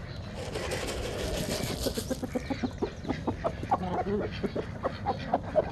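Chickens clucking in quick, short notes from about halfway in, several a second, after a brief rush of noise near the start.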